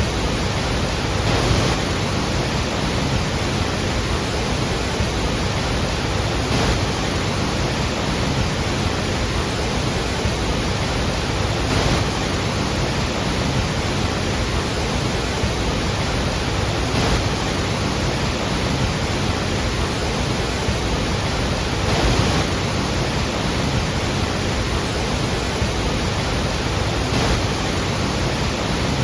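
Large waterfalls of the Iguazu Falls: a steady, dense rush of heavy falling water, with slight swells about every five seconds.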